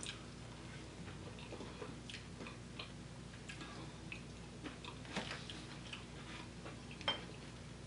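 Quiet chewing and soft wet mouth clicks of someone eating fufu with efo riro by hand, with a couple of sharper clicks in the second half.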